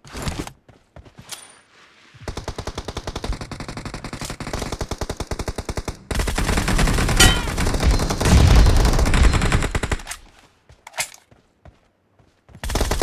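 Video-game automatic gunfire: a rapid, even stream of shots starts about two seconds in, turns louder and heavier for about four seconds, and a short burst comes near the end.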